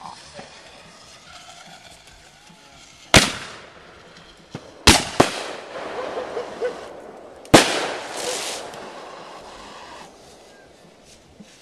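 Fireworks going off: four sharp bangs, one about three seconds in, two close together near five seconds and one near seven and a half seconds, each trailing off in a short echo.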